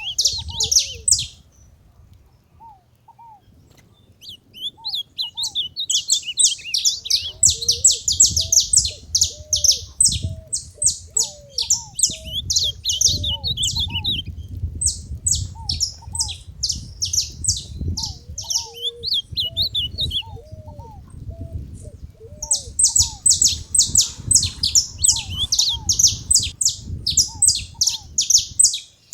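Saffron finches chirping in fast, dense bursts of high notes. They go quiet briefly near the start, chatter at length, pause again and start up near the end. Softer, lower curved whistles sound throughout.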